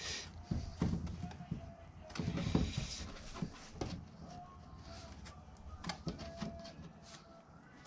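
Scattered light knocks, clicks and scrapes of hard parts being handled, busiest in the first three seconds and thinning out after that.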